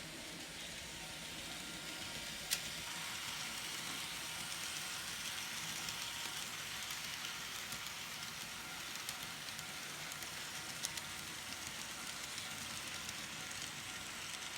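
Kato N scale SD45 model locomotive running on track, a steady high rolling hiss of small wheels and motor, with a sharp click about two and a half seconds in and another near eleven seconds.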